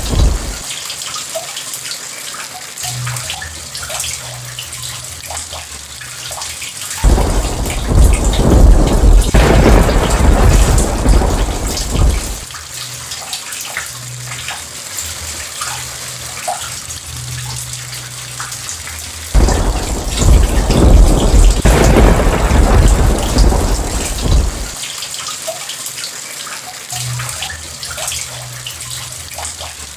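Steady rain with two long rolls of thunder, the first about seven seconds in and the second a little before twenty seconds in, each rumbling for about five seconds.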